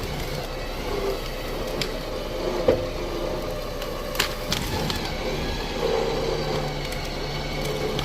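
Wood cracking and splintering in several sharp snaps over a steady machine engine running underneath.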